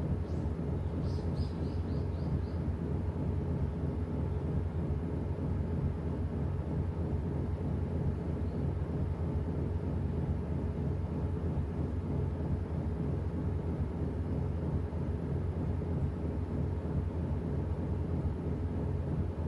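Washing machine running with a steady low motor hum and drum noise that holds even throughout, with no pauses or reversals.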